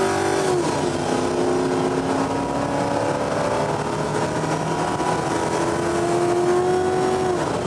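Car engine held at steady high revs, its pitch falling away about half a second in, then held again and dropping off near the end.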